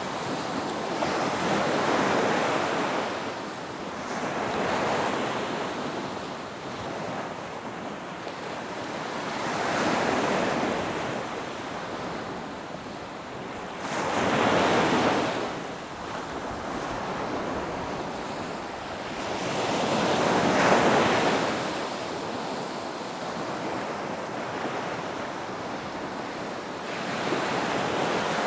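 Ocean surf breaking on a beach: a wash of waves swelling and fading every few seconds, about six surges in all, the strongest past the middle.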